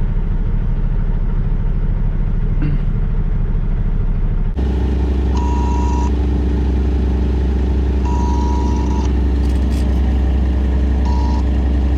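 Semi-truck diesel engine idling, heard from inside the cab. A little over four seconds in the sound changes abruptly, and after that a high beeping tone sounds three times, the middle beep longer than the others.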